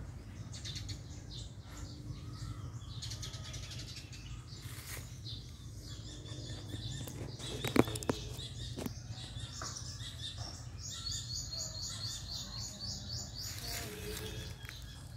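Birds chirping over a low steady rumble, with a rapid high trill from about eleven seconds in. A sharp knock about eight seconds in comes from the recording phone being handled.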